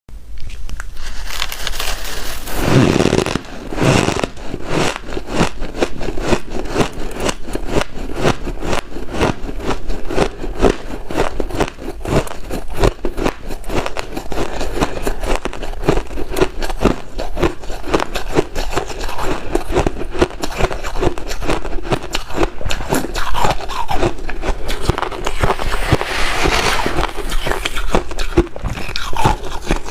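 White ice being crunched and chewed close to the microphone: a dense, continuous run of sharp crackly crunches, with heavier bursts about three seconds in and again near the end.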